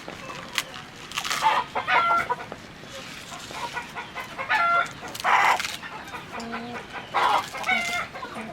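A flock of chickens clucking and calling over one another, with short squawks every second or so.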